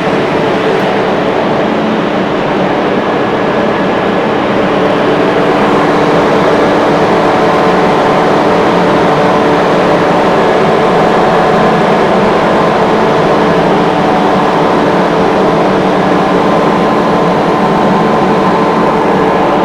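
Industrial screw air compressor running: a loud, steady machine rush with several constant tones held throughout.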